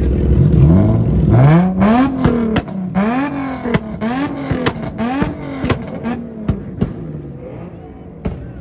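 A vehicle's engine revving hard, its pitch climbing and dropping back over and over about once a second, with sharp cracks each time it drops. It fades toward the end.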